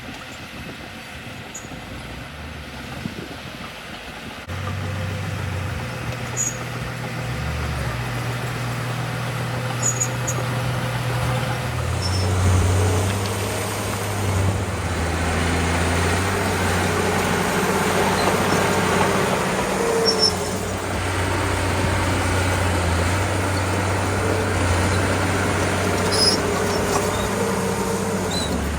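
Diesel engine of a small crawler bulldozer running steadily at work. It grows louder about four seconds in and again around twelve seconds in.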